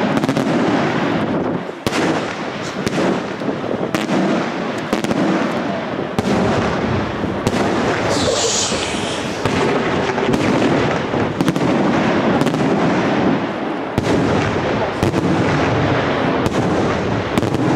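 Fireworks display: aerial shells bursting in rapid succession, a dense run of sharp bangs over a continuous rumble, with a brief high hiss about eight seconds in.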